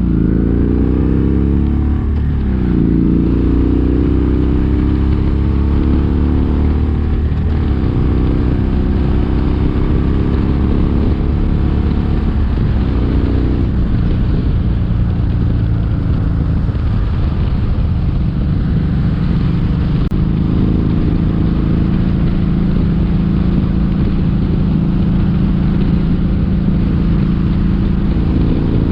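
Kawasaki Vulcan 1700 Vaquero's V-twin engine running under way on the road, its pitch rising with the throttle over the first few seconds, then settling into a steady cruise.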